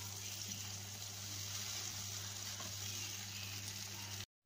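Shredded chicken stuffing in a thick sauce sizzling steadily in a frying pan over a gas burner as a spatula stirs it, with a steady low hum underneath. The sound cuts off abruptly near the end.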